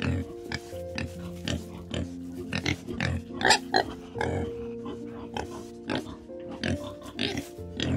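Collared peccaries giving a string of short grunts, irregular and a few per second, over soft background music with long held notes.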